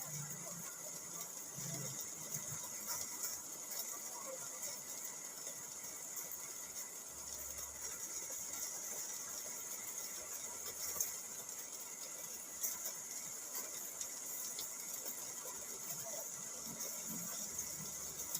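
Rain falling on a car, heard from inside the cabin: a steady hiss of rain with scattered sharper ticks of drops hitting the body, a couple of them louder about eleven and twelve and a half seconds in.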